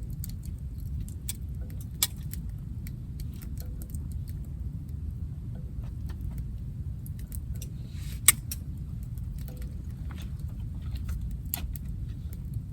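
Scattered light clicks and metallic clinks over a steady low rumble, with two sharper snaps, about two seconds in and about eight seconds in.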